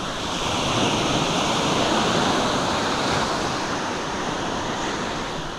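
Sea waves breaking and washing in, the surge building about half a second in, peaking around two seconds, then slowly easing.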